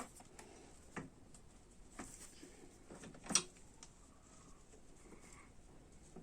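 A few sharp clicks and knocks of a wrench and loose bolts being handled during engine removal, about one a second, the loudest about three and a half seconds in.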